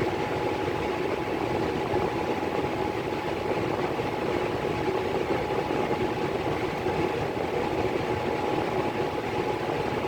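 Miller E3 furnace blower running steadily: an even rush of moving air with a steady whine.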